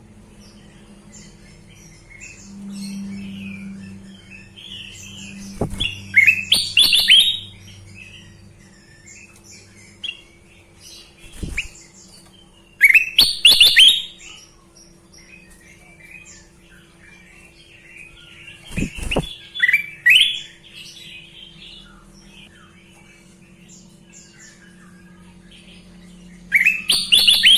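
Kutilang emas bulbul singing: short, loud, rising whistled phrases about every six to seven seconds, with softer twittering between them. A faint steady hum runs underneath.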